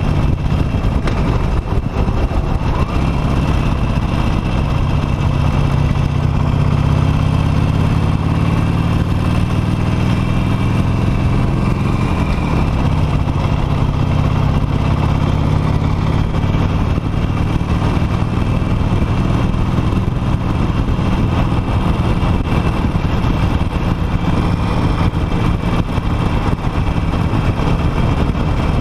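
Harley-Davidson Nightster's V-twin engine running under way, with wind and road noise. The engine's pitch rises gradually for several seconds, drops abruptly about twelve seconds in, then holds steady.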